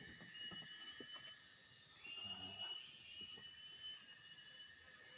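Steady high-pitched chirring of insects, several even tones held at once, with a few faint ticks.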